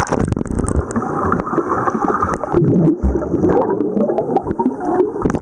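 Seawater gurgling and sloshing as heard through an Olympus TG-5's built-in microphones while the camera is submerged, muffled, with many short clicks and knocks against the body.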